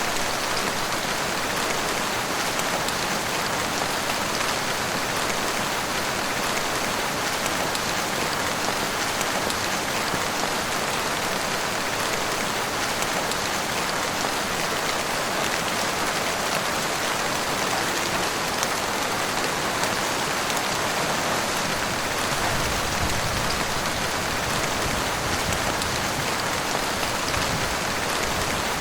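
Heavy rain falling steadily in a dense, even hiss. A low rumble joins in about three-quarters of the way through.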